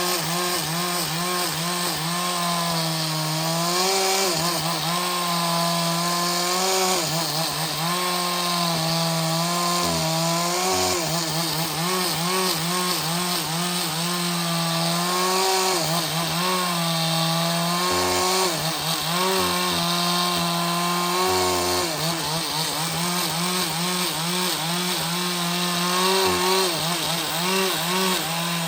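Two-stroke chainsaw cutting through wood under load, its engine pitch dipping and recovering again and again as the chain bites in the cut.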